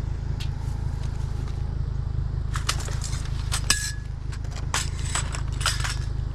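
Scrap metal clinking and clattering as pieces of roadside junk are handled: a run of sharp metallic clinks begins about two and a half seconds in, and one of them rings briefly. A steady low rumble runs underneath.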